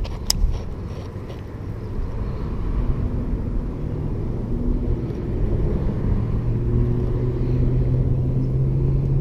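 A motor vehicle's engine runs with a low steady hum and rumble, growing louder over the last several seconds. It cuts off abruptly at the end.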